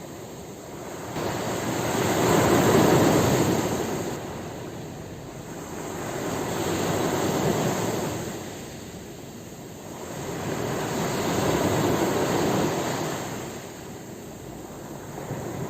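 Ocean waves breaking and washing up the shore, three waves swelling and fading away about every four to five seconds.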